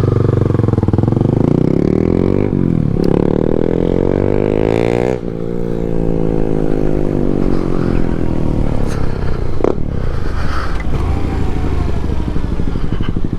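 Yamaha MT-07's parallel-twin engine under way. It runs steadily at first, revs rise for about two seconds and are cut back sharply about five seconds in, then the revs wind down over the next few seconds and settle.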